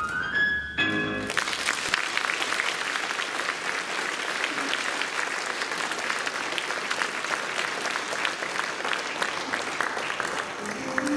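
A sung note and its accompaniment end about a second in, and an audience then applauds, an even crackle of many hands clapping. Instrumental music starts again near the end.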